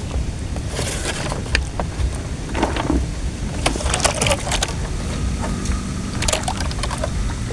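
Irregular crackles and snaps of wood or dry brush over a steady low rumble.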